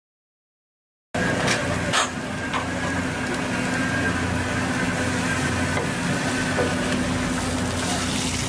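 Silence for about a second, then an abrupt cut to a steady vehicle engine drone with a constant hum and a few clicks soon after it starts.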